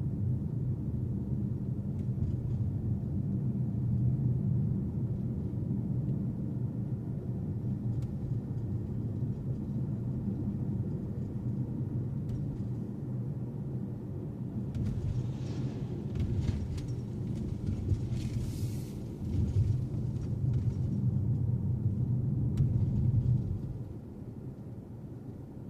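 Steady low rumble of a car being driven, engine and road noise, with a stretch of hiss about two-thirds of the way through and the rumble falling away near the end.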